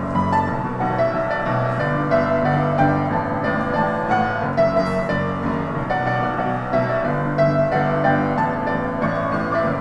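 Solo piano playing a pop melody with bass accompaniment, many quick notes struck in a steady flow.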